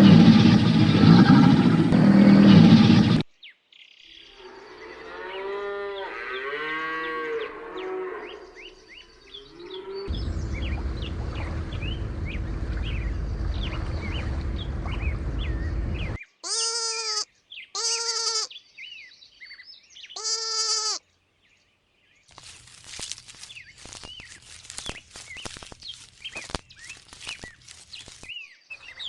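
A run of farm-animal calls, one clip after another: a loud call at the start, then a series of wavering calls, a steady lower call lasting several seconds, three short separate calls about a second apart, and near the end a patter of quick clicks and small chirps.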